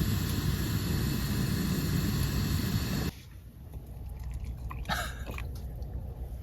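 Strong wind blowing over the microphone, a loud steady rush that cuts off abruptly about three seconds in. Then it is much quieter, with scattered small clicks and chewing sounds of eating.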